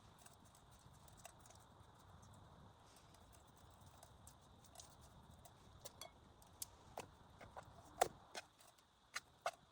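Faint, scattered sharp clicks and knocks over a quiet background, coming more often in the second half, with one louder knock about eight seconds in.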